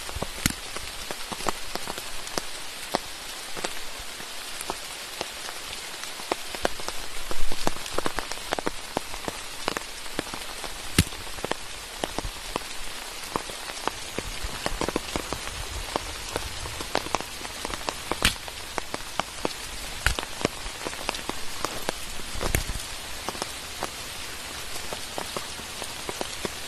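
Steady rain falling, with many individual drops pattering sharply close by and a few heavier low thuds, the loudest about seven seconds in.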